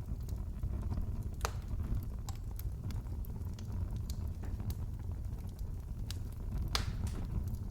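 Wood fire crackling in a fireplace: a steady low rumble with scattered sharp pops, two louder ones about a second and a half in and near the end.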